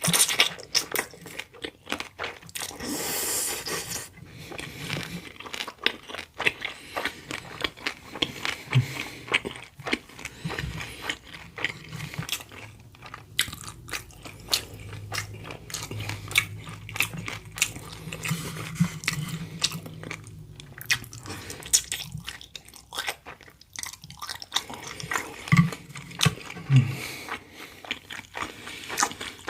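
Close-miked eating: chewing with repeated crisp crunching bites, and a brief rushing noise about three seconds in.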